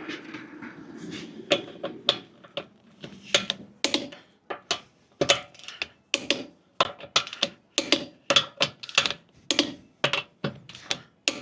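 Torque wrench ratchet clicking in short, irregular strokes, about two clicks a second and closer together in the second half, as the wheel lug nuts are checked for torque.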